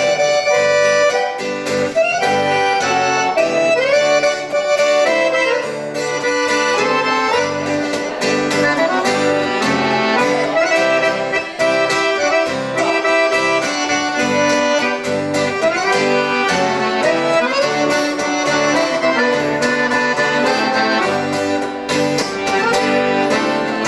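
Instrumental break of a Brazilian sertanejo song, with no singing: a lead melody over a backing band with a steady beat.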